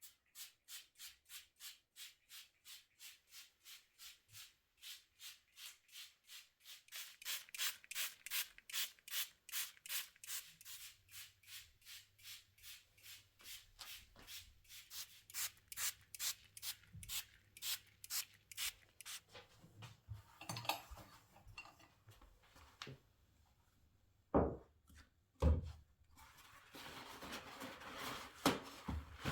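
Rhythmic back-and-forth rubbing or scraping, about two strokes a second for some twenty seconds, then two dull thumps about a second apart.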